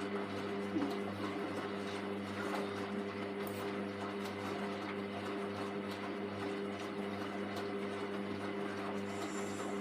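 Hoover Vision Tech VT 914 D22X washing machine running mid-cycle on a 40 °C mixed wash, a steady hum over a constant wash noise.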